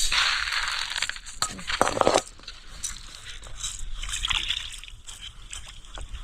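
Liquid sloshing and splashing, loudest in the first two seconds, then quieter uneven splashing.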